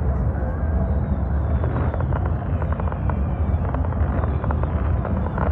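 Fireworks crackling: many small, sharp pops from crackling stars, thickening from about a second and a half in, over a steady low rumble.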